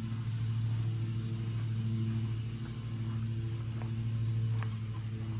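Engine idling steadily: a low, even hum with a few faint clicks over it.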